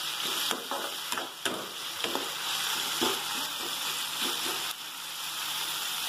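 Sliced onions and tomatoes sizzling in hot oil in a steel kadai, stirred with a ladle that scrapes against the pan now and then. The tomatoes are being fried soft in the onion-and-oil base.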